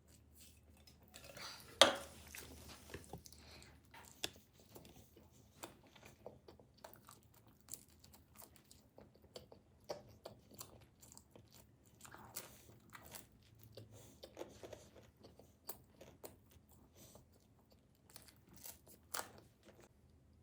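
A person biting into and chewing pizza close to the microphone: a loud crunchy bite about two seconds in, then steady chewing with many small crunches and clicks, and a few louder crunches near the end.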